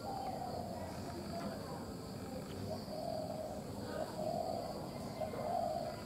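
Low hooting bird calls, short notes repeated several times and more frequent in the second half, over a steady high insect drone.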